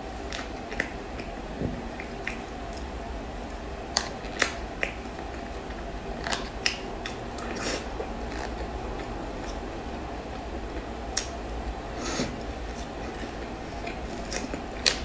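Eating chocolate cream cake: scattered sharp, wet mouth clicks while chewing, and light taps as a plastic spoon cuts through the cake in its plastic tray, over a steady low hum.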